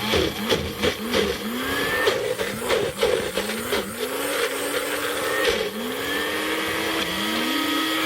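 Blender pulsed on and off in many short spurts, its motor whine rising each time it spins up, then running in longer stretches near the end. It is churning a thick peanut-butter sauce that has just been thinned with a little water.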